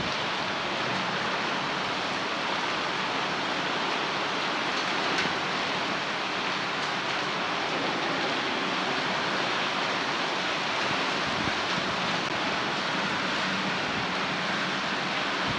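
Heavy rain falling in a steady downpour with hailstones mixed in, a few faint ticks standing out now and then.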